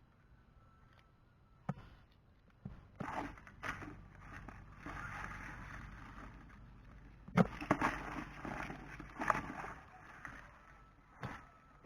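A series of irregular knocks and thuds, the loudest about halfway through, with rough scraping or rustling in between.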